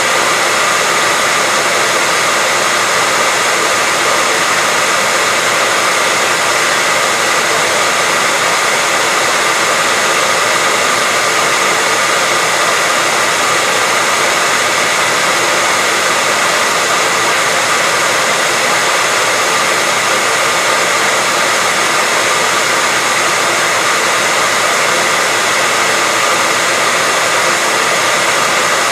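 Hair dryer running continuously at a steady speed: an even rushing of air with a faint steady whine from the motor.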